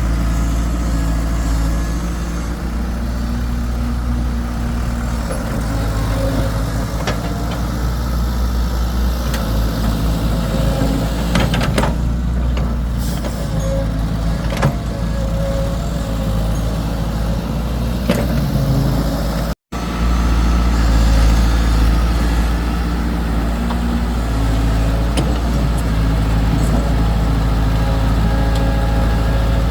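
Excavator's diesel engine running steadily with a heavy low hum, broken once by a very short gap about two-thirds of the way through.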